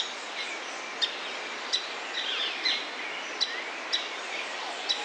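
Birds chirping over a steady hiss of outdoor ambience: a short, sharp chirp repeats about every half to three-quarters of a second, with a few other sliding bird calls mixed in.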